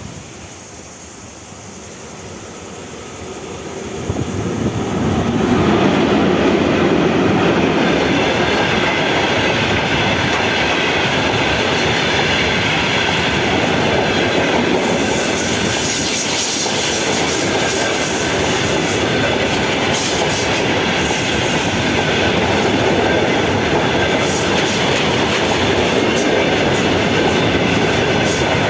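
A train approaching and then rolling past close by. It grows louder between about four and six seconds in, then holds a steady loud rush of wheels on rails and passing cars.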